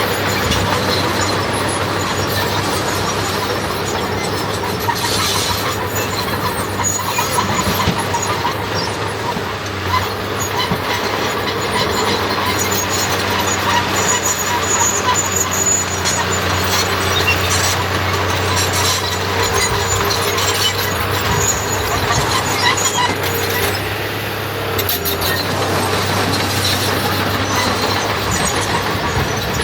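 Diesel engine of heavy earthmoving machinery running steadily under load, with now and then a metallic knock.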